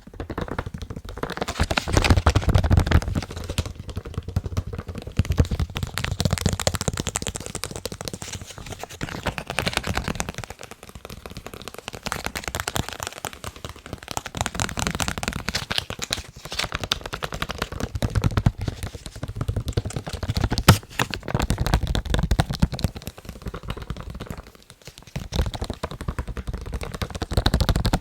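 Fast tapping on a face mask: a dense run of rapid taps that swells and fades in loudness, with one sharper, louder tap about three-quarters of the way through.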